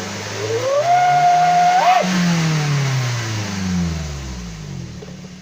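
Daihatsu Gran Max engine revved once through a newly fitted aftermarket exhaust. The pitch climbs about half a second in, holds high for about a second, then falls slowly back toward idle.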